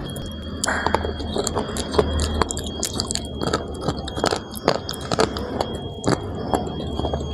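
Crunching bites and chewing of a hard, chalk-like mineral stick close to the microphone: sharp, irregular crunches, several a second.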